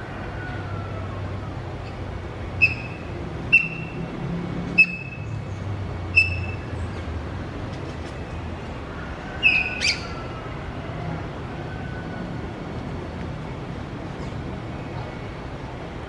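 A bird giving short, high chirps: four single chirps a second or so apart, then a louder double chirp about ten seconds in. A steady low background hum runs under them.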